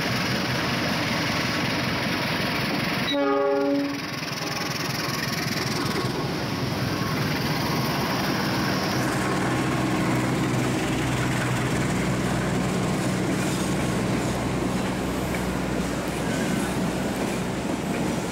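Diesel-hauled passenger train departing at low speed: one short train horn blast about three seconds in, then the steady rumble and clatter of the coaches rolling past.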